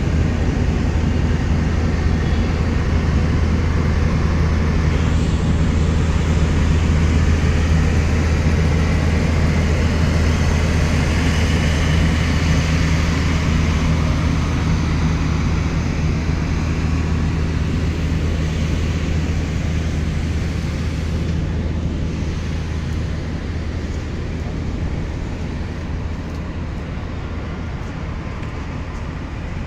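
GEU-20 diesel-electric locomotive pulling out with a train, its engine giving a steady low drone that gradually fades in the last third as it draws away.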